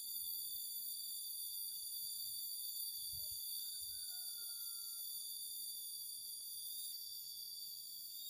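Steady high-pitched insect chorus, several unbroken shrill bands layered over one another, with a couple of faint low thumps about three and four seconds in.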